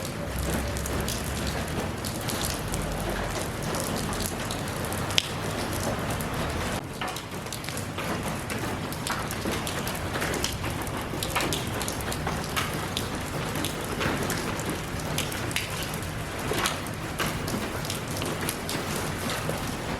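Steady rain falling on a surface: a constant hiss with many individual drops pattering through it, and one sharper drop hit about five seconds in.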